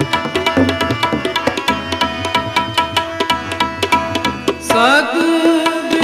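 Kirtan accompaniment in Raag Malaar: tabla playing a fast, steady rhythm under the held notes of a harmonium. Near the end a singer's voice slides upward into a sung phrase.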